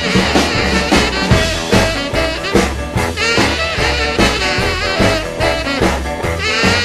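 A swing band playing an instrumental break, with no singing: horns over a steady, pulsing bass and drums.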